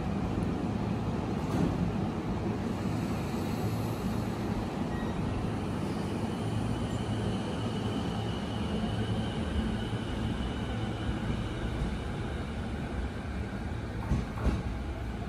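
E233-series electric commuter train pulling away along the platform, its wheels and running gear rumbling steadily, with a faint high whine from the traction motors partway through. A couple of sharp clacks come near the end.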